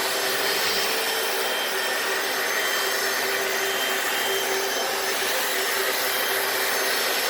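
Hoover FloorMate wet floor cleaner running steadily in wash mode: its suction motor whining with a constant hiss and a steady hum, while the brushes scrub and the machine sucks up cleaning solution.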